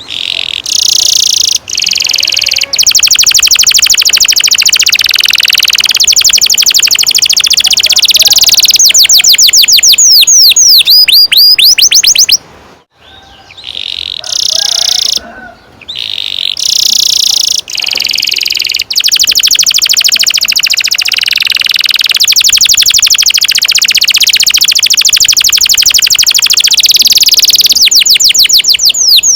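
Domestic canary singing long, loud rolling trills (a long roll, 'ngerol panjang'), phrases closing with runs of quick sweeping whistle notes. There is a short break about halfway through before the song resumes.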